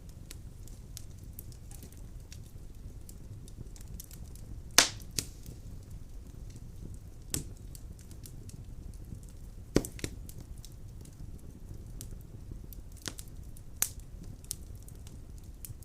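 Wood fire burning in a fireplace: a steady low rumble of flames with scattered crackles and sharp pops of the burning logs, the loudest pops about five seconds in and again near ten seconds.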